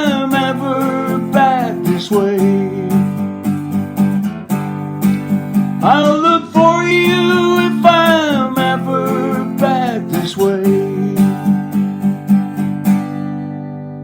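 Acoustic guitar strummed in a steady rhythm under held, wavering sung notes on the song's closing line. The strumming stops a little before the end, leaving a final chord to ring and fade.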